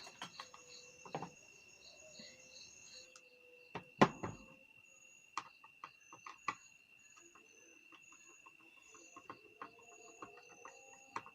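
Scattered clicks and knocks of the electric kettle's base parts being handled and worked on, the loudest knock about four seconds in. Behind it, insects trill steadily with regular high chirps.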